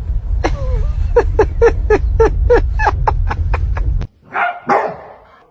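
Dog barking in a quick series of about a dozen short barks, roughly three a second, over a low rumble that cuts off suddenly. Near the end come two short, higher cries.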